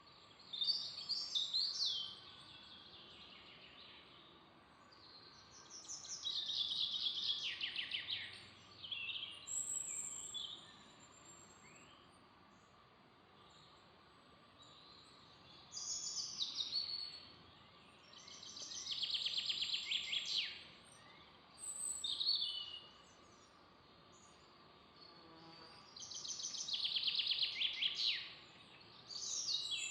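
A songbird singing short trilled phrases of fast repeated notes that fall in pitch, one phrase every few seconds, over a faint steady background hiss.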